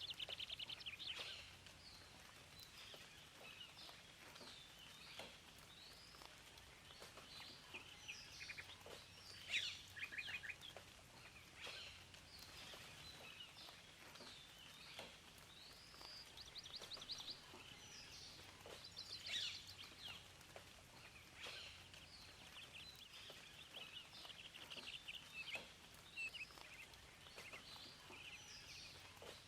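Several songbirds singing and chirping over a faint steady background hiss: quick whistled notes and short rapid trills, overlapping, throughout.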